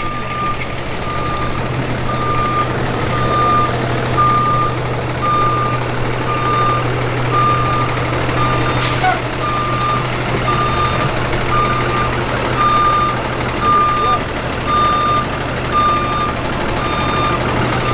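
A truck's reversing alarm beeping: a single high tone repeating at an even pace throughout, over the steady low running of its engine. There is one sharp click about nine seconds in.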